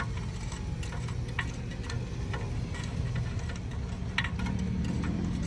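Irregular light metallic clicks of a socket and extension being worked on a spark plug in a 4.8 LS engine bay, over a steady low rumble.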